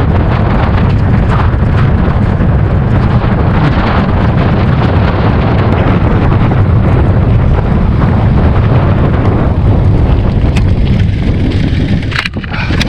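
Strong headwind buffeting the microphone of a camera on a moving bicycle: a loud, steady low rumble that eases briefly near the end.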